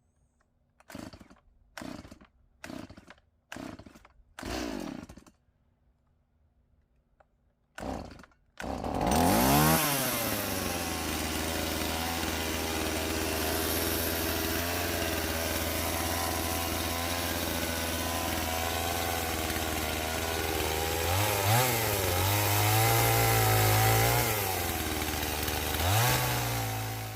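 Chainsaw being pull-started: about six short cord pulls, then the two-stroke engine catches and runs. It is revved up as it starts and blipped a few more times near the end.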